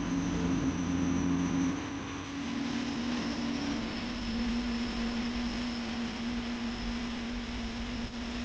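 Steady engine noise like that of aircraft or gas turbines: a deep hum with a thin high whine above it. Its pitch shifts once, about two seconds in.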